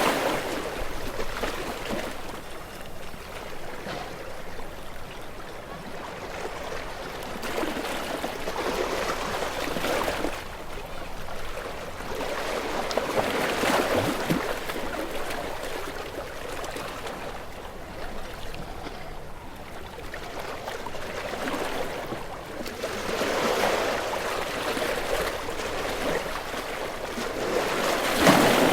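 Ocean waves washing in and drawing back: a steady rushing hiss that swells with each breaking wave every several seconds, loudest near the start and the end.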